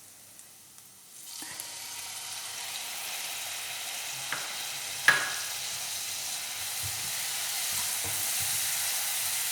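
Soy sauce poured into a hot pan of garlic and spring onion fried in butter. It starts sizzling about a second in, and the sizzle slowly grows louder. A spoon knocks against the pan twice, the second knock the loudest sound.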